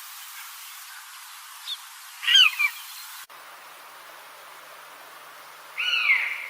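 A bird calling: short, high, downward-gliding calls, a double call about two seconds in and another near the end, over a steady background hiss.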